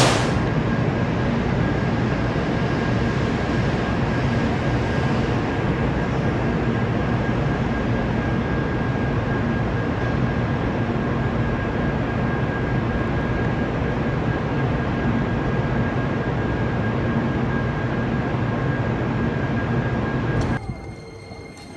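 Hello Kitty-liveried 500 series Shinkansen running past on the tracks, a steady train noise with a faint high steady tone, cutting off suddenly near the end.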